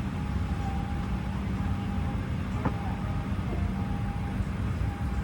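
Steady low rumble and hum inside the cabin of a Boeing 737-800 after arrival, with a single sharp click about two and a half seconds in.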